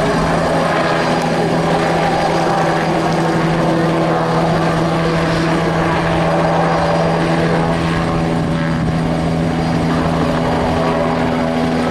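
Agusta Bell 206B JetRanger helicopter in flight, its single turboshaft engine and two-blade rotor making a steady loud hum with strong held low tones; a second, slightly higher tone becomes clearer near the end.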